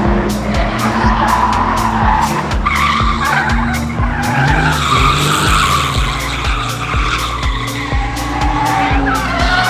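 Background music with a fast, steady beat over a drifting car, its tyres squealing.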